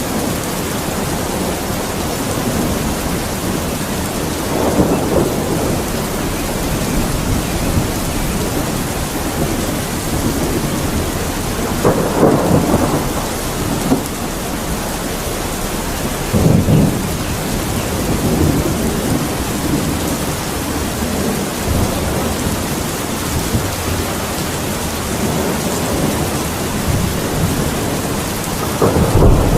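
Steady rain falling in a thunderstorm, with rumbles of thunder swelling up several times, the strongest about 12 and 16 seconds in.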